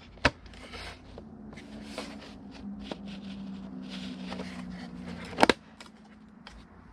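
Plastic heater-box parts being handled and fitted together by hand: light rustling and small ticks, with two sharp clicks, one just after the start and one about five and a half seconds in. A low steady hum sounds in the background through the middle.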